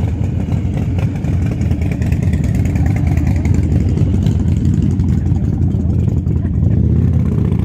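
Motorcycle engine running close by with a steady, loud, low rumble.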